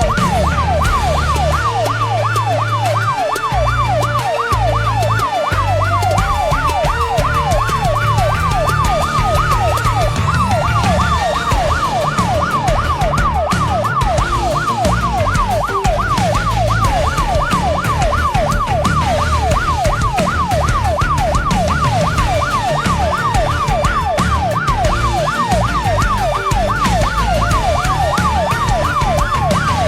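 Emergency vehicle sirens sounding together: one in a fast, continuous yelp, about two to three pitch sweeps a second, and another in a slow wail that rises, holds and falls several times. A low engine rumble runs underneath.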